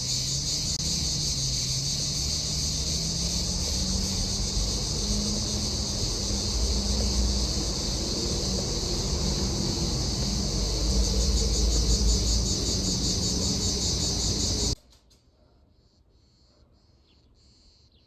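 Loud, steady chorus of shrilling insects over a low rumble with a hum slowly rising in pitch. It cuts off abruptly near the end, leaving quiet with a few faint chirps.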